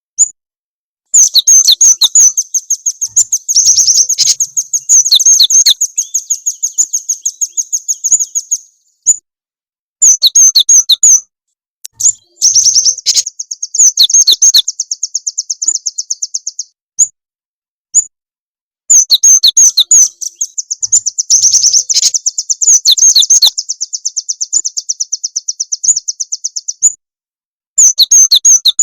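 Bird-lure recording of small songbirds' rapid, high chattering trills, played in bursts of a few seconds with abrupt dead-silent gaps between them, as an edited, looped call track.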